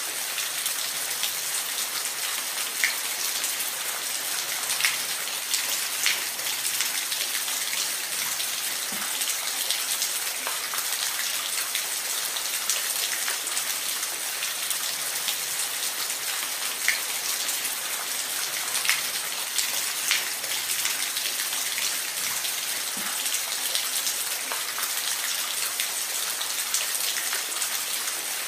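Steady rain: an even hiss of rainfall with scattered louder drops striking a surface.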